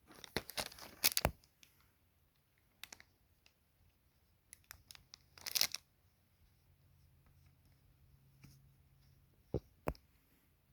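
Tools and their packaging being handled: scattered clicks and rustles, a quick flurry at the start, a louder rustle about halfway through, and two sharp clicks near the end.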